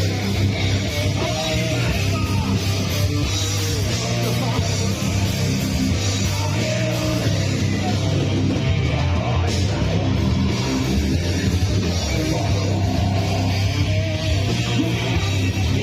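Live rock band playing loud, distorted guitars, bass and drums, with shouted vocals.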